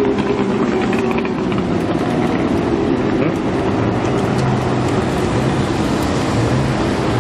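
Supercar engine running at low revs with a steady note that settles lower in pitch partway through.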